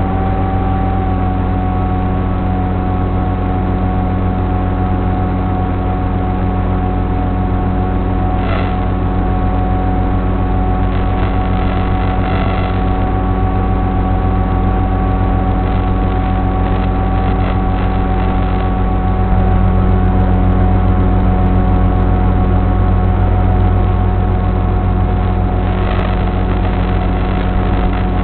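Brushless electric motor and propeller of an AR Wing FPV flying wing running steadily with several held tones. It gets a little louder for about five seconds some two-thirds of the way in.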